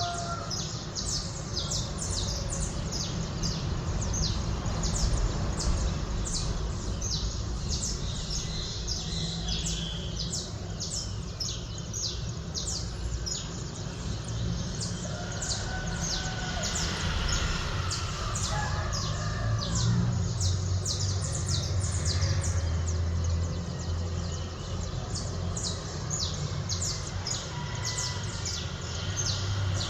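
Small birds chirping in quick, repeated short notes, over a steady low rumble of distant city traffic.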